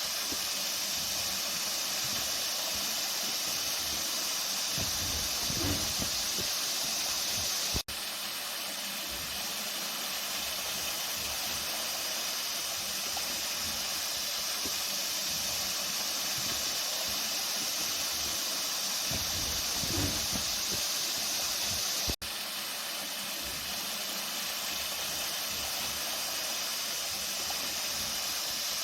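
Water flowing, a steady rushing hiss with no pause, broken by two very brief dropouts about eight and twenty-two seconds in.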